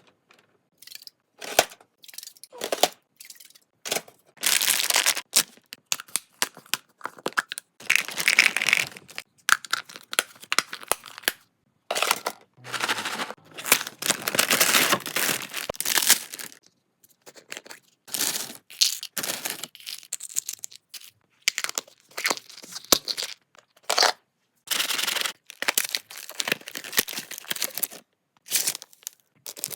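Packaging being torn open and crinkled in a series of separate bursts, some lasting a second or two, with a few sharp clicks or knocks in between.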